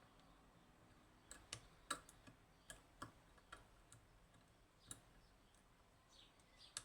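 Sharp metallic clicks of a lever-lock pick and tension wire working the levers inside a Union/Chubb G110 five-lever lock, about ten irregular clicks with pauses between them.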